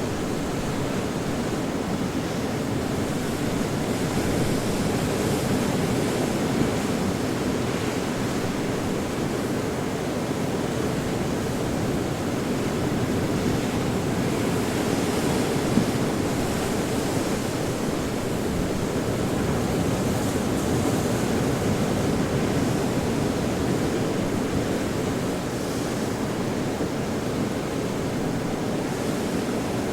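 Ocean surf: a continuous wash of waves breaking, a steady roar that swells and eases gently.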